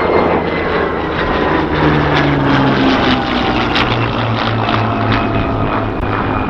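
Rolls-Royce Merlin V12 piston engine of a WWII fighter making a low pass, its engine note dropping steadily in pitch as the aircraft goes by.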